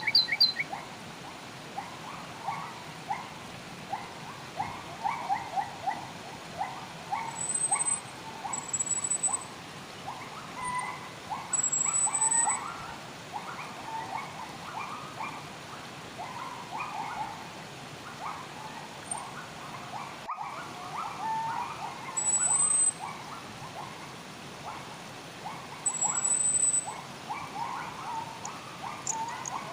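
Wild birds chirping with dense, rapid, repeated calls, and now and then a thin high whistle, over a steady hiss of flowing water.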